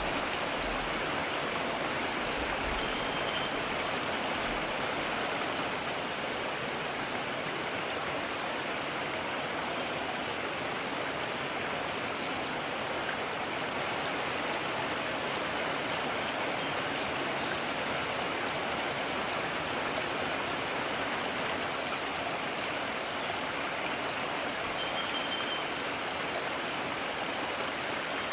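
Mountain stream rushing steadily over rocks, an even unbroken water noise. A few faint, short high chirps come through twice, once a couple of seconds in and again near the end.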